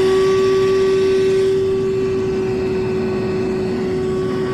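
Wet/dry shop vacuum running at full speed just after starting, its motor holding a loud, steady high whine, pulling water from a clogged air-conditioner condensate drain.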